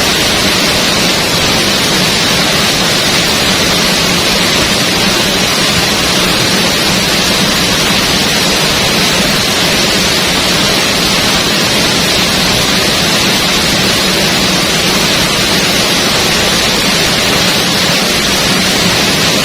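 Loud, steady rush of a waterfall pouring into its plunge pool, an even hiss without breaks.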